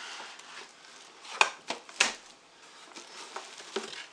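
A coffee maker's cardboard box and packing being handled and lifted out, with scraping and a few sharp knocks, the loudest about one and a half and two seconds in.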